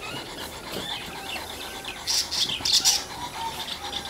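Small birds chirping in short, high-pitched bursts, busiest about two to three seconds in.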